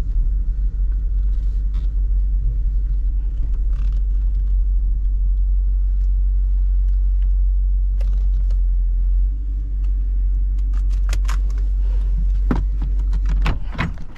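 A car being driven, heard as a steady low rumble of engine and road noise inside the cabin. About three seconds before the end a quick series of clicks starts, and the rumble then drops away as the car slows or stops.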